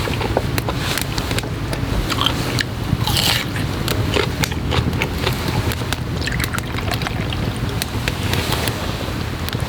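Strong wind rumbling on the microphone, with a person eating close by: chewing and scattered small clicks.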